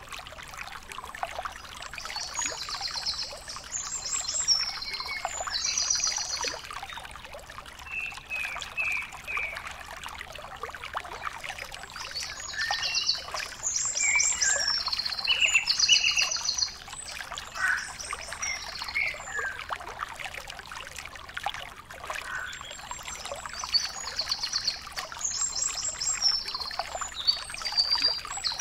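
Birds chirping, with rapid high trills that come in short clusters, over a steady hiss.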